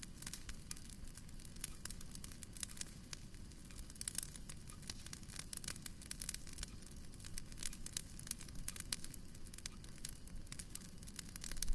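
Wood fire in a fireplace crackling, with frequent irregular small pops and snaps over a steady low rumble, and a louder snap near the end.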